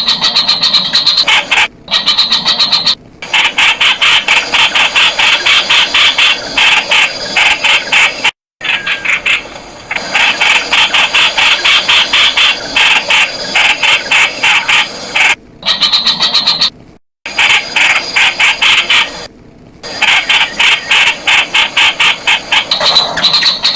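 Streak-eared bulbul calling: fast runs of short, repeated chattering notes, broken off abruptly by several brief silences.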